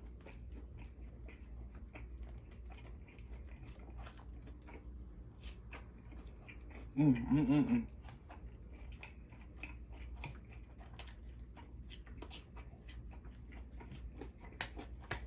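Close-miked chewing and biting of food, a steady run of small mouth clicks and smacks. About seven seconds in there is a short, loud, wavering vocal sound from the eater.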